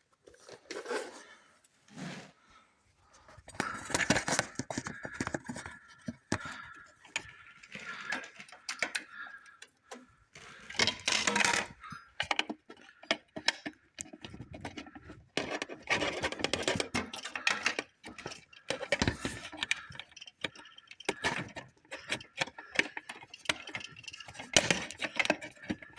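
Handling noises: small hard objects clicking, rattling and scraping against each other in irregular bursts, with sharp clicks throughout.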